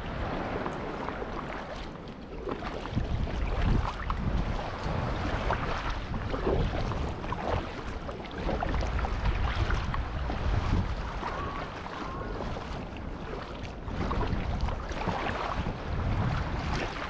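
Wind buffeting the microphone with a low rumble, over irregular splashing and sloshing of sea water against a fishing kayak on the open sea.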